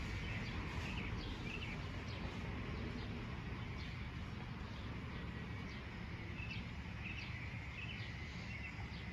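Birds chirping in short, scattered calls, in clusters about a second in and again in the second half, over a steady low outdoor rumble.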